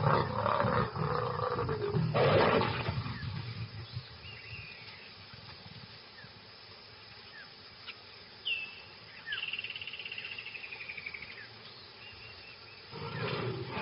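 A mating pair of lions growling and snarling loudly for the first three seconds or so. Then it goes quieter, with birds chirping and one long trilling call in the middle. The growling starts again near the end.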